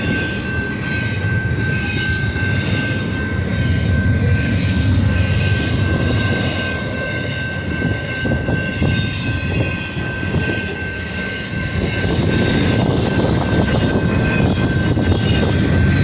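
Freight train passing close by: a loud, steady low rumble with a thin, steady high ringing tone over it.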